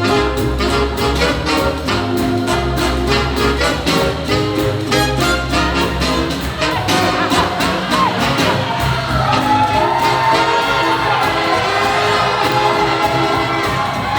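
Live swing jazz band playing with a steady beat, walking bass notes and a horn-like melody line over the top, with some crowd noise underneath.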